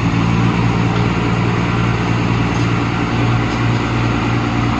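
Diesel engine of a six-wheel dump truck stuck in sand, running hard at steady high revs as it tries to pull free. The engine gets louder right at the start and stays loud.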